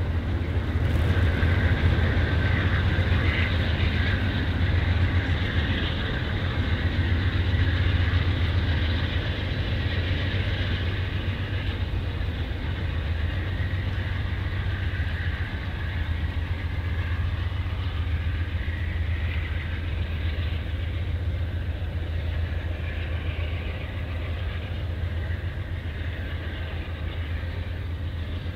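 Train cars rolling past on the rails: a steady low rumble with a continuous hiss of wheel and rail noise, easing a little in the second half.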